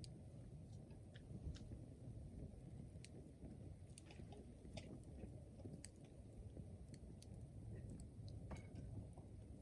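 Wood fire burning: scattered, irregular small pops and snaps of crackling wood over a faint low steady rumble.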